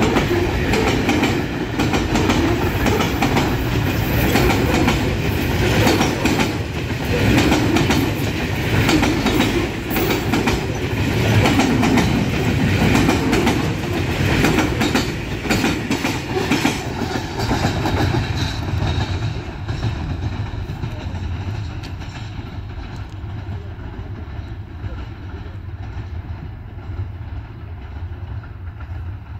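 Container freight train rolling past close by, its wagon wheels clattering over the rail joints in a dense run of clicks over a steady rumble. After about twenty seconds the sound fades to a duller, quieter rumble.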